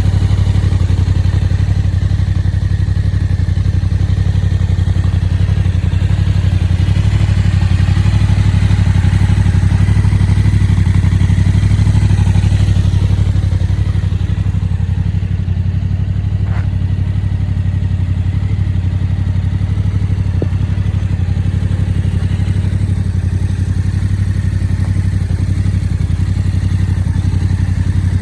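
Yamaha Tracer 7's 689 cc parallel-twin engine idling steadily.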